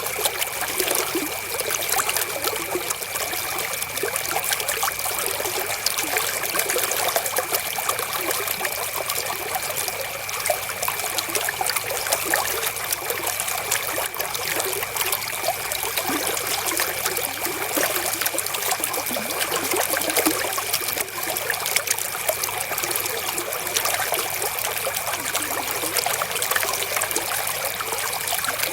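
River water flowing steadily, with many small splashes, under a faint steady high tone.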